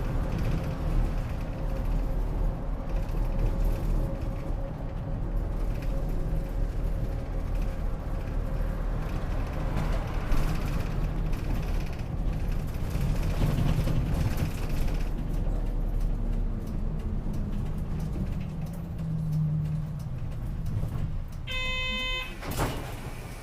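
Route bus running, heard from inside the cabin: a steady engine and road rumble that eases as the bus slows for a stop. Near the end comes a short electronic chime, followed by a click.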